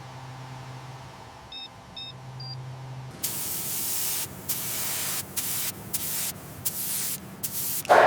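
Pressurised spray hissing in repeated bursts with short breaks, starting about three seconds in. Before it there is a low steady hum and three short high beeps.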